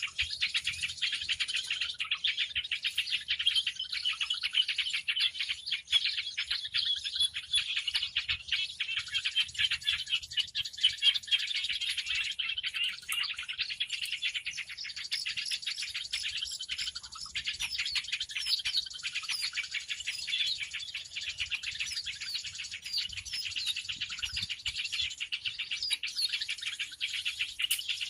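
A dense chorus of many small birds chirping and twittering at once, with rapid high chirps and short whistled glides overlapping without a break: a bird-lure (suara pikat) recording.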